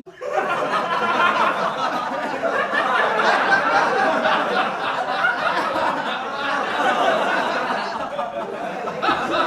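Many voices chattering and laughing over one another at once, an unintelligible, steady babble with no single voice standing out.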